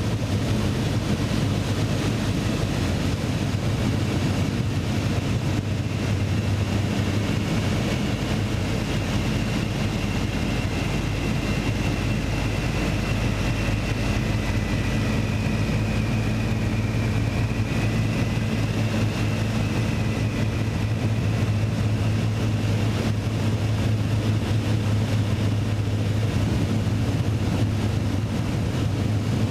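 Propeller aircraft's piston engine running with a steady, unchanging drone.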